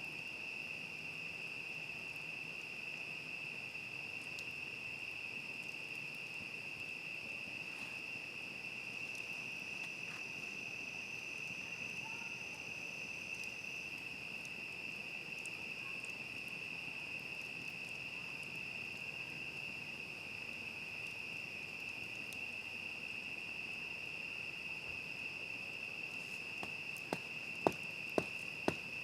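A chorus of crickets trilling in one steady, high, unbroken tone. Near the end come a few sharp clicks.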